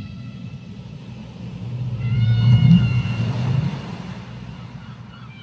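Whale call recorded underwater: a single high, steady call with several overtones about two seconds in, lasting about a second, over a continuous low underwater rumble.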